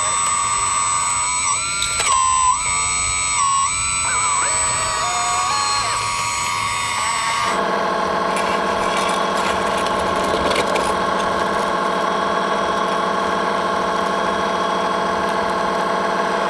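Electric motors and hydraulic pumps of radio-controlled construction models whining, the pitch stepping up and down and gliding as the machines are worked. About halfway through the sound changes abruptly to a steady, low, even hum.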